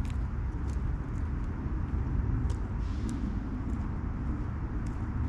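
Steady low rumble of a vehicle running or driving, with a few light clicks or rattles scattered through it.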